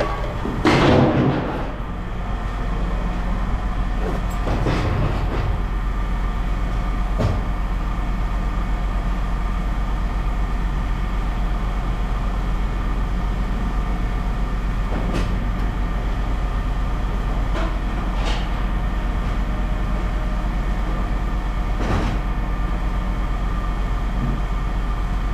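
A steady low machine hum, with a loud rushing scrape about a second in and a few scattered light knocks.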